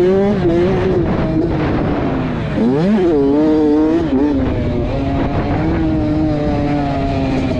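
Motocross dirt bike engine revving up and down on the throttle. The pitch drops sharply about two and a half seconds in, then climbs again and holds fairly steady.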